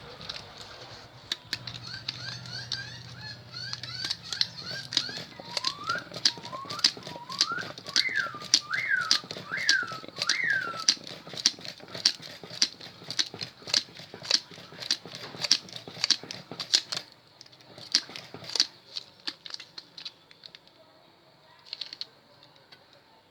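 Rapid irregular clicks and ticks of copper wire being wound by hand into the slots of a Bosch rotary hammer drill armature, easing off near the end. For several seconds in the middle a bird calls: a series of short chirps, then several rising-and-falling whistles.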